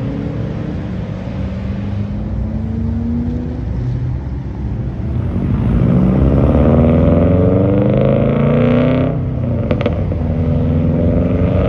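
A car engine accelerating hard: the revs climb for a few seconds, drop off sharply about nine seconds in with a few sharp pops, then climb again as it pulls away.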